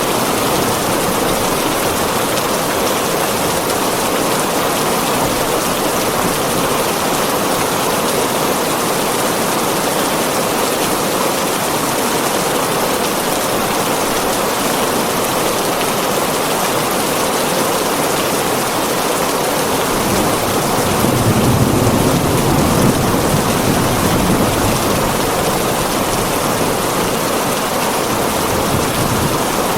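Heavy rain falling on a tin roof, a steady dense hiss. About two-thirds of the way in, a low rumble of thunder swells and fades over a few seconds.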